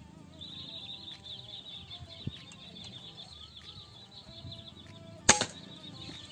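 A single sharp air rifle shot about five seconds in, fired at a trinil (sandpiper). Before it a high, fast-pulsing buzz runs in the background.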